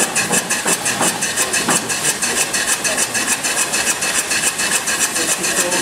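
Restored stationary mill steam engine running on compressed air, its exhaust puffing in a fast, steady rhythm of hissing strokes.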